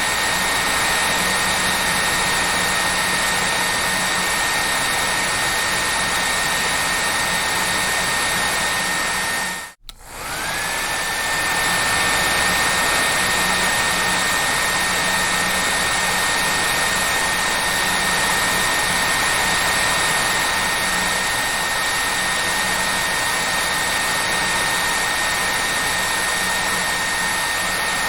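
Hair dryer running steadily: an even rush of air with a high motor whine over it. It cuts out briefly about ten seconds in and comes back, its whine rising back up to pitch.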